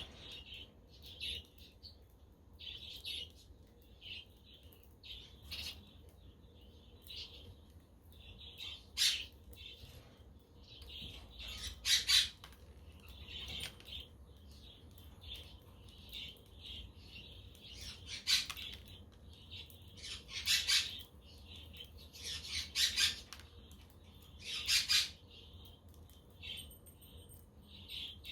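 A flock of budgerigars chirping and chattering continuously, with a louder squawk every few seconds.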